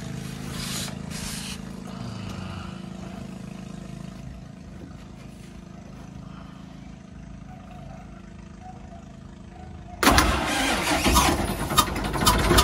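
A low steady engine hum, then about ten seconds in a 6D16 inline-six diesel starts and runs loud with sharp, regular puffs. The mechanics take the noise for lost compression, suspecting a leaking valve.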